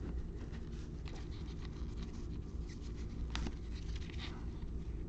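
Trading cards being handled and slid against one another, soft scratchy rustles with a sharper flick about three and a half seconds in, over a steady low hum.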